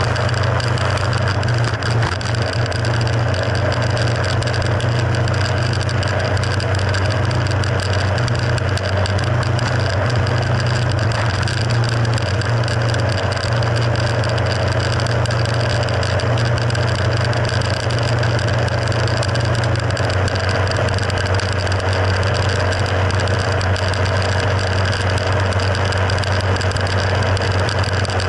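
Mercury F60 four-stroke outboard motor running steadily, its engine speed holding constant with no revving.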